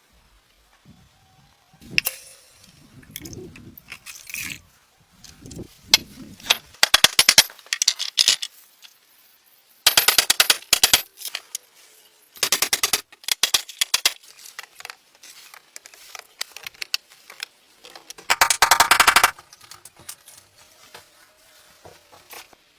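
Several bursts of rapid, rattling knocks, each about a second long, with scattered single knocks and quieter handling sounds between them.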